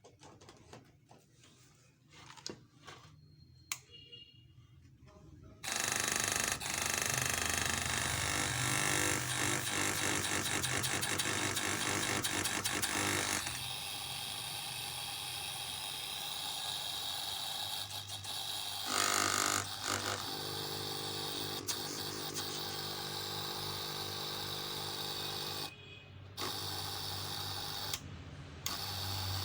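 An air compressor starts about six seconds in and runs steadily and loudly, its sound changing about halfway through. It dips briefly twice near the end.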